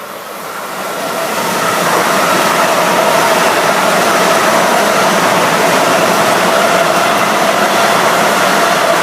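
Passenger train passing close by on the New Haven Line. The rumble and rush of the train swell over the first two seconds, then hold steady and loud with a humming drone.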